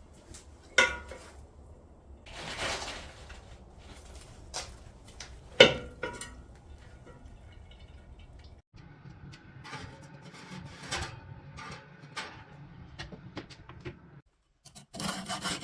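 Scattered clinks and knocks of hard objects being handled in a workshop, two sharp ones standing out about a second in and near six seconds, over a low steady hum. Near the end a steady rubbing, as in sanding or filing, begins.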